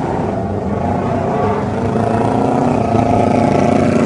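Motorcycle engine running at raised revs, its pitch wavering slightly and holding fairly steady.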